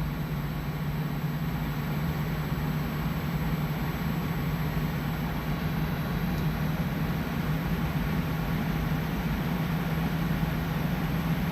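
LG Dual Inverter window air conditioner running: the blower fan pushing a steady rush of air as it ramps up toward full speed, over a steady low hum from the inverter compressor held at 40 Hz. The sound grows slightly louder over the first couple of seconds, then holds.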